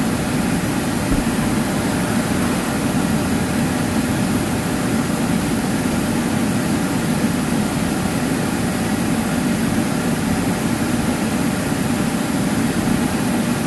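Steady hum of an idling car with its air conditioning blowing, heard inside the cabin.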